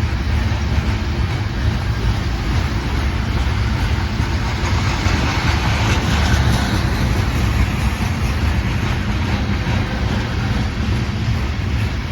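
Norfolk Southern freight train rolling past, a steady loud rumble of wheels on rail, with a brief swell of higher rushing noise about halfway through.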